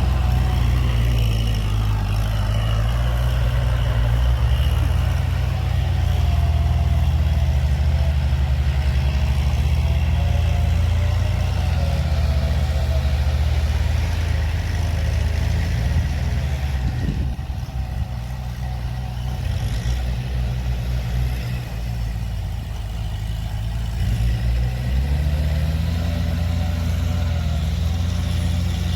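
Kubota tractor's diesel engine running steadily, easing off for several seconds past the middle and then coming back up.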